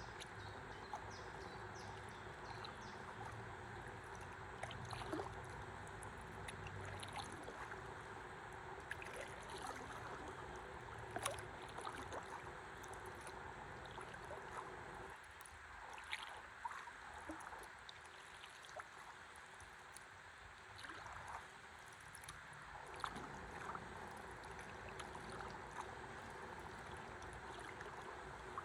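Faint river water flowing and lapping around a stand-up paddleboard, with small scattered splashes and ticks; the low rumble of the flow eases off for several seconds past the middle.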